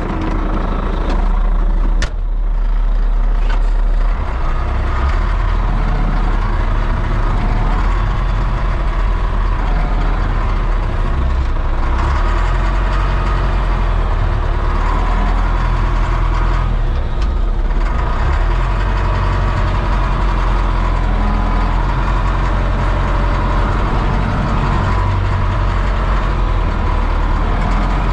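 A vehicle engine running steadily with a deep low rumble, with a sharp click about two seconds in.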